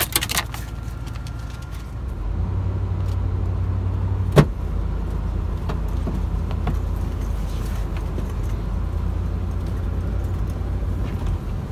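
Vehicle engine running with a steady low drone that gets louder about two seconds in, after a few clicks at the start. One sharp knock about four seconds in.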